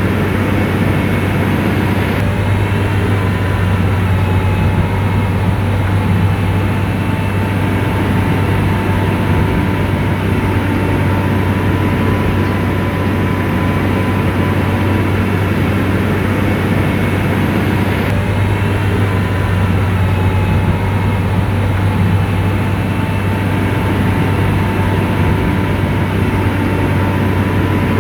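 Komatsu bulldozer's diesel engine running steadily under work, a deep even drone with a thin steady whine on top.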